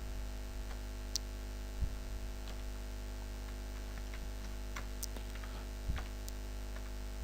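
Steady electrical hum with a handful of faint, scattered clicks of keys being pressed one at a time on a computer keyboard while a file name is typed in.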